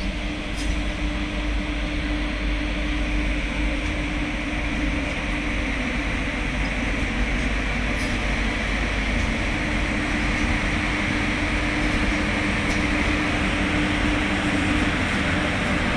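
Electric-hauled freight train of open BOSTHSM wagons rolling past: a steady rumble of wheels on rail with a steady low hum, and a few faint sharp clicks.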